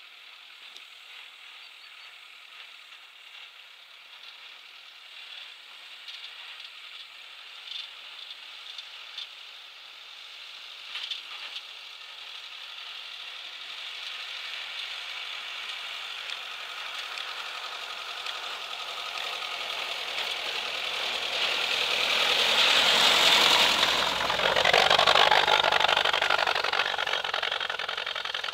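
Engine of a 1980 UAZ off-roader running under load as it drives through snow, growing steadily louder as it approaches and loudest as it passes near the end, then easing off slightly.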